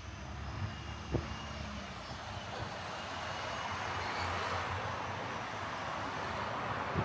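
City road traffic, a steady engine rumble with the sound of passing vehicles swelling louder through the second half. Two footsteps land on the pavement, about a second in and at the end.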